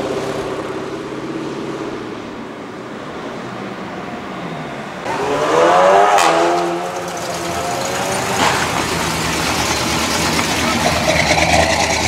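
V8 muscle car engines accelerating away. A Dodge Challenger SRT's V8 fades as it drives off, then about five seconds in another muscle car revs hard, rising and falling, as it pulls away.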